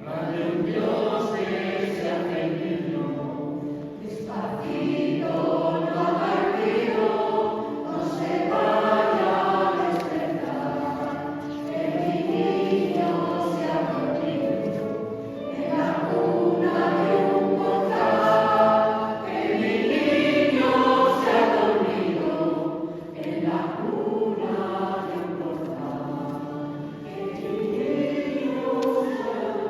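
Choir singing a Christmas carol, sung in phrases that swell and ease off with short dips between them.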